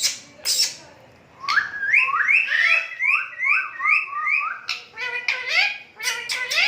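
Pet parrot whistling a run of about eight identical rising notes, roughly two a second, with short harsher calls just before and after.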